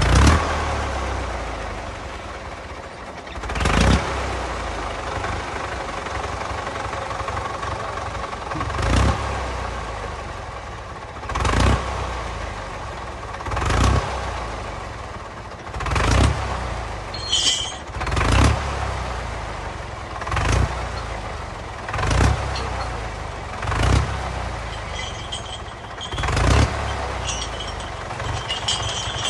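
1955 Fordson tractor engine running steadily, with repeated short surges in engine speed about every two to two and a half seconds, like throttle blips.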